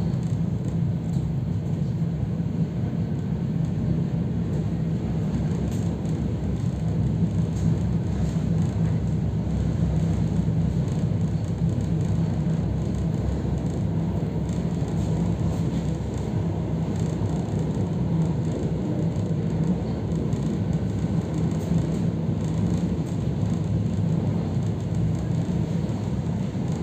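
Steady low rumble of an EP3D electric multiple unit running along the line, heard from inside a passenger car.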